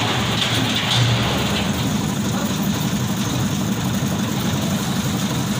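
A construction machine's engine running steadily at an even, low pitch.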